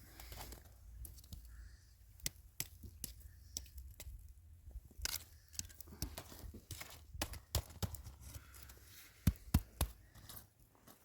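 A run of irregular sharp cracks and snaps, about twenty in all, the loudest two close together near the end.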